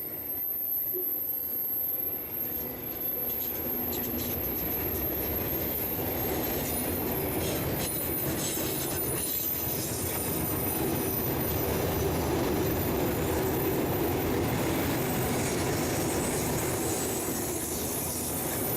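Freight train rolling past in a steady rumble of wheels on rail, with a few clicks of wheels over rail joints partway through. It grows a little louder in the second half.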